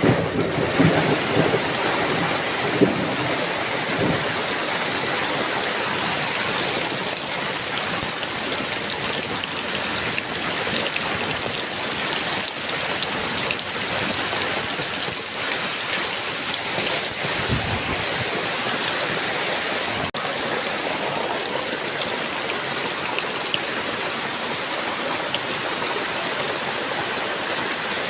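Heavy rain falling steadily. A thunder rumble fades out in the first second, and a short, faint low rumble comes a little past halfway.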